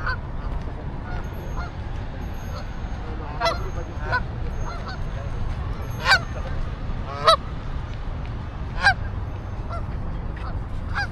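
Birds calling: a run of short, pitched calls, the loudest three about six, seven and nine seconds in, with fainter calls between, over a steady low background noise.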